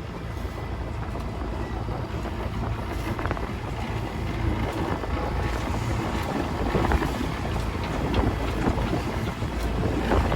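Wind buffeting the microphone on a boat under way, with water noise, growing gradually louder.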